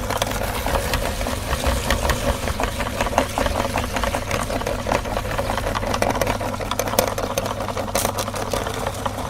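Electric meat grinder running with a steady motor hum, overlaid by dense irregular crackling clicks as material is crushed through it.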